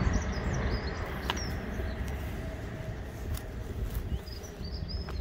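Small birds chirping in short high notes, near the start and again near the end, over a loud, uneven low rumble.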